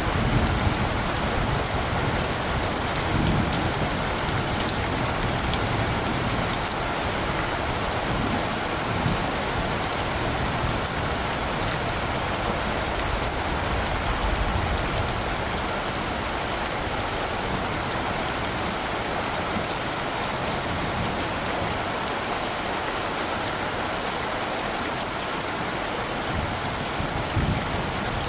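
Steady rain, a constant hiss with a fine patter of drops. Low rumbles of light thunder come at the start and again near the end.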